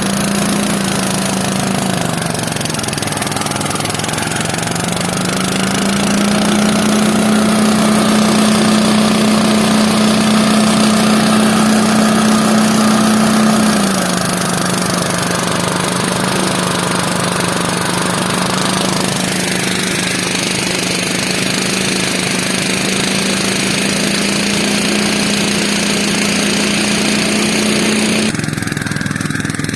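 Small engine of a rice thresher running steadily. Its speed dips a few seconds in, rises and holds, then drops back about halfway through, as the machine's load changes.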